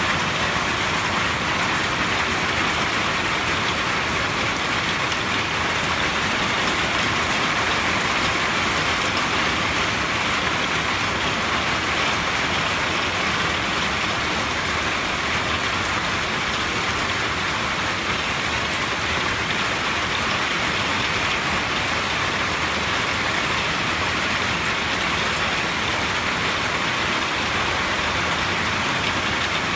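Steady rain drumming on a tin roof, an even, unbroken patter that holds at one level.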